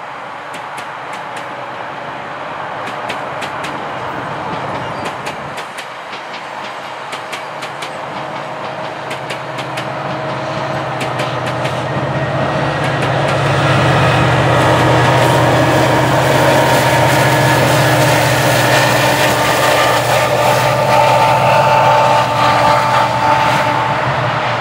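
GO Transit commuter train of bilevel coaches passing, the wheels clicking over rail joints through the first half. The rumble grows louder about halfway through, with a steady low hum and a higher tone.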